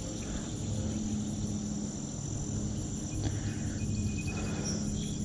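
Steady chirring of crickets and other insects, a constant high drone, over a low steady rumble.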